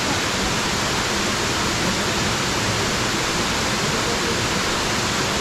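Small natural waterfall pouring into its pool: a steady, unbroken rush of falling water.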